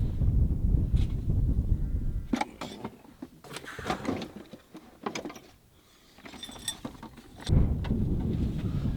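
Gusts of wind buffeting the microphone with a heavy low rumble. The gust drops away a couple of seconds in, leaving a lull of scattered clicks and a brief high squeak, and then a fresh gust hits hard about seven and a half seconds in.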